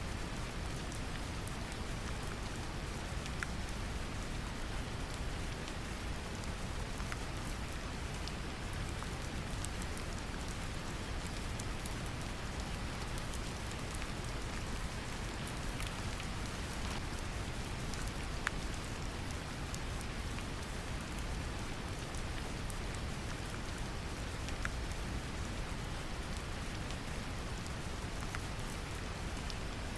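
Steady brown noise, a deep even rumble, mixed with gentle rain whose scattered drops tick sharply against it.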